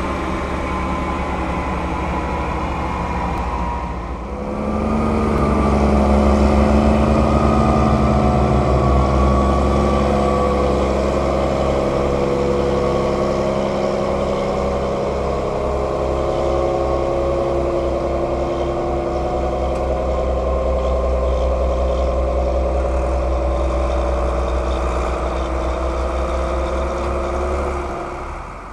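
Heavy diesel engine of large farm machinery running steadily. It dips briefly about four seconds in, then runs louder with slowly shifting pitch.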